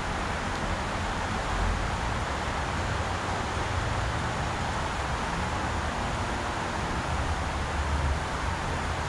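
Steady rush of a fast-flowing mountain river, an even hiss of water, with some low rumble underneath.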